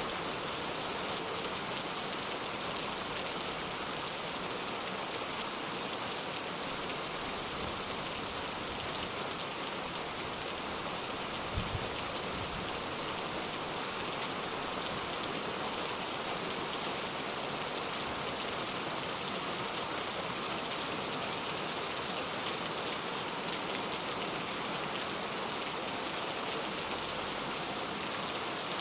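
Steady rain falling, an even, dense hiss of drops, with a brief low thump about twelve seconds in.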